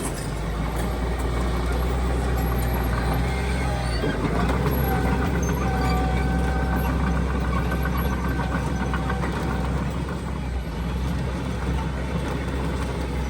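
Heavy diesel earth-moving machinery running steadily with a deep engine rumble, and a faint held whine from about four to nine seconds in.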